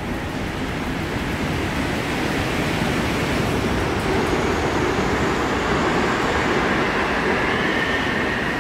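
Airport Railroad train approaching behind the platform screen doors: a steady rushing rumble that grows slowly louder, with a high whine coming in over the second half.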